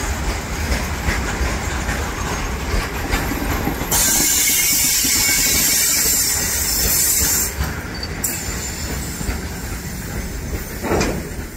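Open-top freight wagons of an electric-hauled Indian Railways goods train rolling past at speed, their wheels clattering over the rail joints. About four seconds in, a loud hissing rush sets in suddenly and lasts about three seconds. Near the end the last vehicle, a brake van, passes and the clatter fades.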